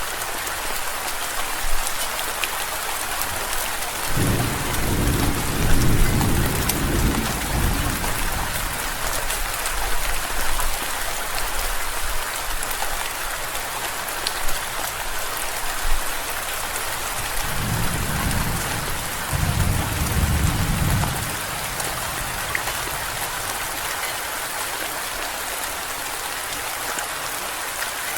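Steady heavy rain hissing, with low rolls of thunder rumbling twice: one a few seconds in and another past the middle.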